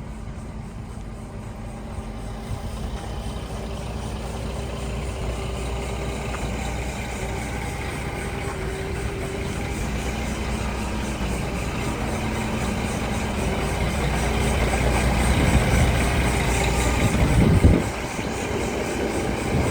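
Scania R480 dump truck's six-cylinder diesel engine running steadily at idle, growing gradually louder, with a brief loud peak near the end before it falls back.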